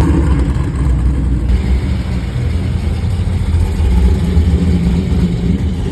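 A loud car engine running with a deep, uneven rumble.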